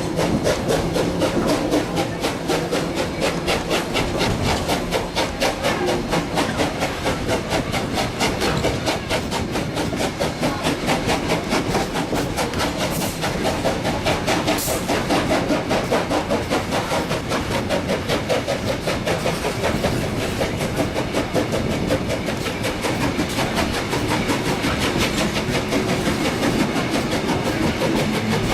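Steam locomotive BB18¼ 1079 running under steam, its exhaust chuffs coming in a fast, even beat along with the train's rolling noise on the rails. A short burst of hiss breaks through twice in the middle.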